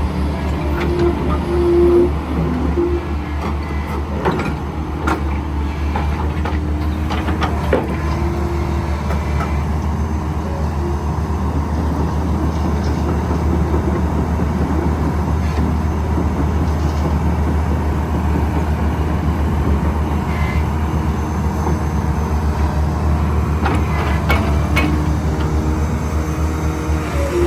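Kobelco SK135SR crawler excavator working: its diesel engine runs steadily with a higher tone that comes and goes as the hydraulics are worked, and a few short knocks from the machine.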